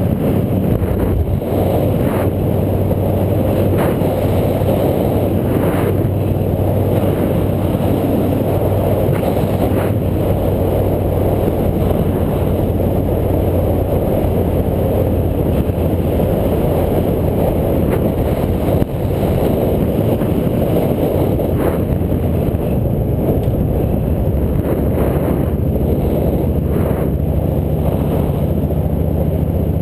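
Steady noise of a vehicle ride at speed: a low running drone under heavy wind rush on the action camera's microphone, with a few brief bumps.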